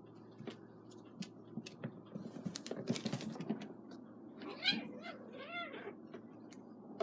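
A kitten meowing twice, about four and a half seconds in, two short calls that rise and fall in pitch. Scattered light clicks and a brief rustle come before them.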